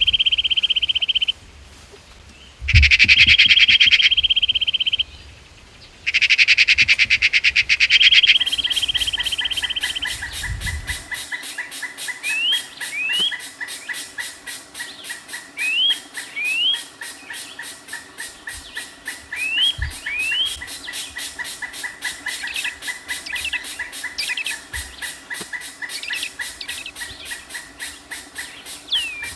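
Bird calls: a loud, high buzzing trill in three stretches at first, then short upward chirps in pairs, repeating every three to four seconds over a fine, fast pulsing background.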